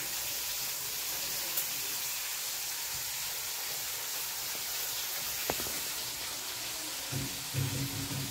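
Steady sizzle of fish frying in oil, with a single sharp click about five and a half seconds in and a short low hum near the end.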